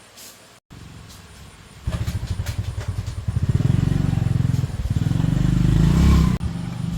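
Small single-cylinder motorbike engine running with a fast, even pulse. It gets much louder about two seconds in as the revs rise, then drops suddenly near the end.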